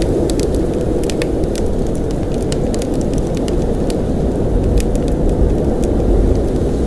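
Steady low rumble of blizzard wind, with scattered light ticks throughout.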